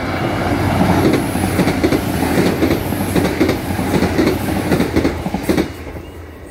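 Northern Ireland Railways diesel multiple unit passing over a level crossing at speed, its wheels clattering over the rail joints. The clatter ends suddenly about five and a half seconds in as the last carriage clears.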